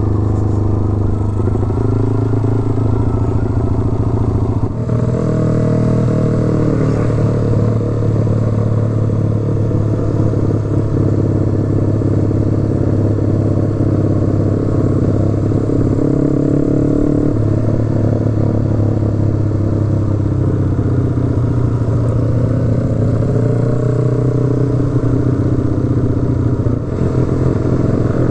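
Motorcycle engine running steadily under way. Its note rises and falls gently a few times.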